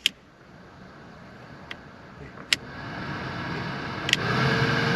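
Mercedes W201 190D cabin blower fan being switched up through its speeds: sharp clicks of the fan switch, with the rush of air stepping up louder at about two and a half and four seconds in, where a steady motor hum joins it.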